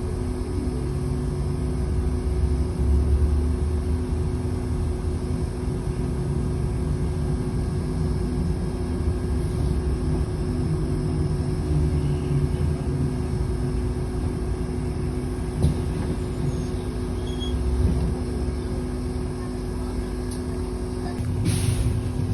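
City bus in motion: steady engine and road rumble that swells and eases, with a constant low hum underneath. A single click comes about two-thirds of the way through, and a short sharp hiss near the end.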